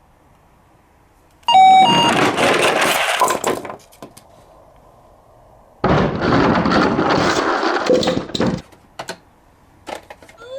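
Two crash sound effects with shattering glass, each lasting about two to three seconds, the first about a second and a half in and the second about six seconds in.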